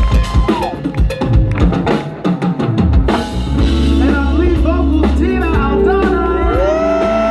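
Live band playing an instrumental passage: a drum kit with snare and bass drum hits, giving way about three seconds in to a steady bass line and long held notes.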